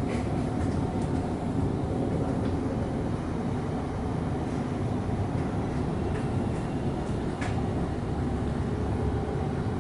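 Steady running rumble of an electric suburban train, heard from inside the carriage, with a light click late on.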